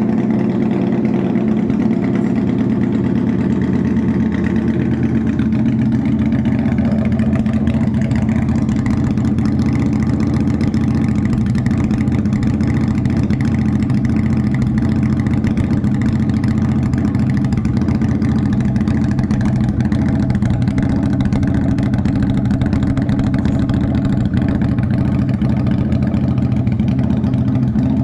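SRV 250 cruiser motorcycle idling steadily through its new custom-made exhaust, a prototype pipe of thicker steel and a slightly wider bore. There is no revving; the idle holds an even pitch and level throughout.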